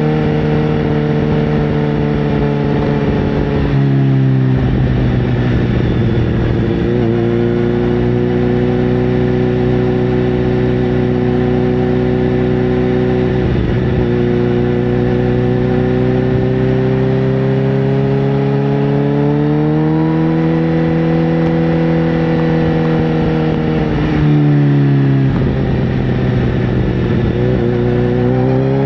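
Sportbike engine running under way, its note holding steady for long stretches and dropping, then climbing back up, a few times as the revs change.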